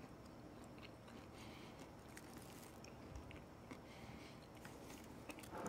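Faint chewing of a mouthful of deep-fried insect kakiage, a crisp battered hornet-and-grasshopper fritter, with small soft crunches now and then.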